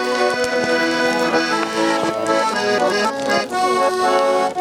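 Accordion playing a Cossack folk tune in held chords.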